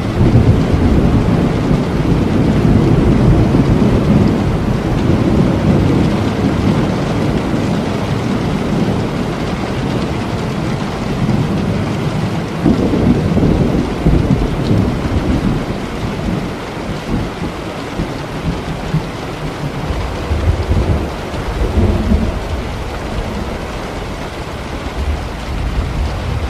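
Steady heavy rain with rolling thunder: a long low rumble begins at the start and fades over about six seconds, then swells again briefly about halfway through and once more later on.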